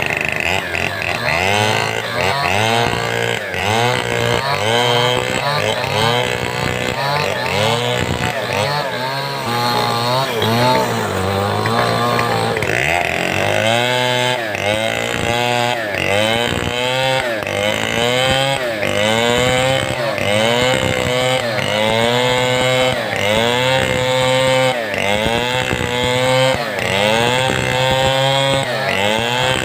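Large 070-type two-stroke chainsaw cutting through timber at high revs, its engine pitch dipping under load and recovering over and over, about once a second in the second half.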